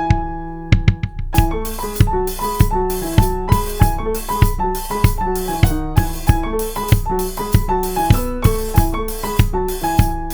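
Background music: a keyboard playing a bouncy melody in short, separate notes, with a drum kit coming in about a second in and keeping a steady beat.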